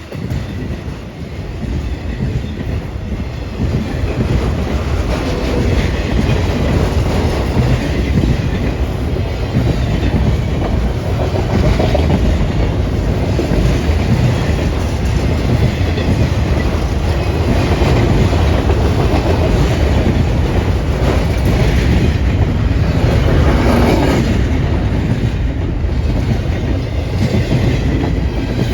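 A train rolling past, its cars' wheels rumbling and clattering over the rails. The sound builds over the first few seconds, then holds steady and loud.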